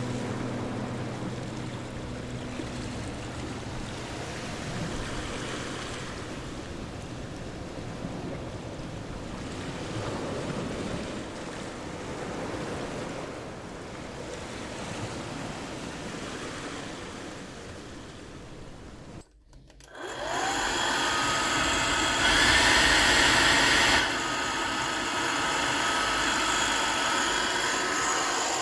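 A rushing noise that swells and fades, then a brief drop-out and a hair dryer switched on, its motor and fan running with a steady whir and a high whine. It is louder for a second or two after it starts, then settles. This is the dryer running again after its broken power cord was repaired.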